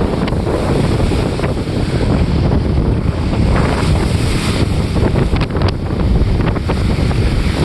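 Strong wind blasting across the microphone, with choppy water splashing around a small sailboat's hull as it sails hard in gusts.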